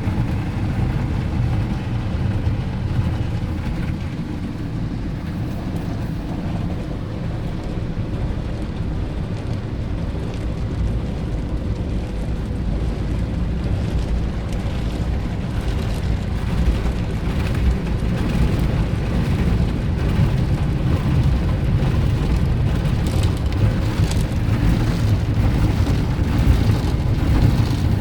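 Automatic car wash at work on a car: a steady, loud rushing and drumming of water spray and wash brushes on the body, growing a little louder about halfway through.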